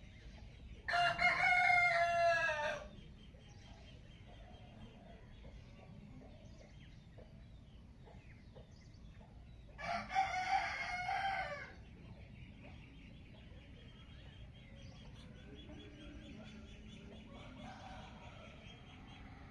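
A rooster crowing twice, each crow a little under two seconds long, the second about nine seconds after the first. Faint chirping goes on in the background.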